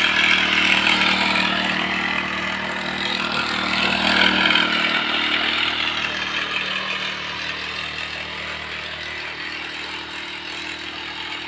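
Small engine of a motorised sprayer running steadily, with a hiss of spray over it that grows quieter in the second half.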